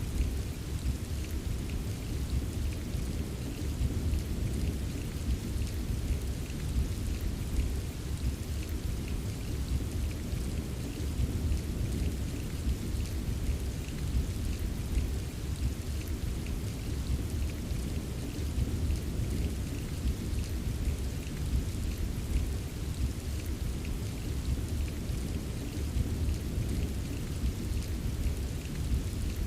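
Steady rain ambience: an even wash of rain with a deep continuous rumble beneath it and faint drop ticks on top, unchanging throughout.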